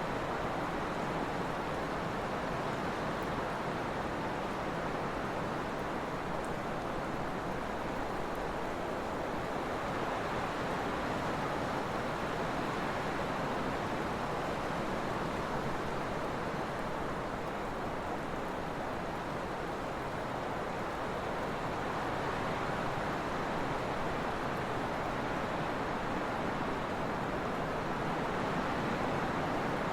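Trade winds blowing steadily, a continuous rushing that swells and eases slowly.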